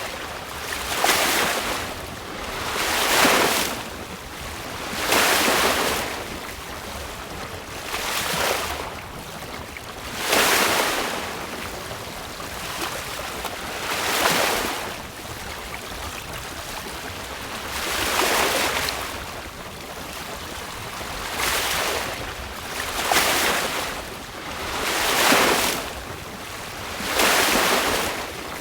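Sea water rushing and splashing along a sailboat's hull in choppy water, swelling and fading in surges every two to four seconds, over a steady bed of wind and water noise.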